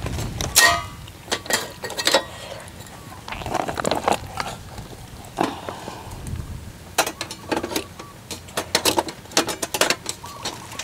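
Irregular metallic clicks, clinks and knocks of a portable gas stove and its gas canister being handled while the empty canister is swapped for a new one.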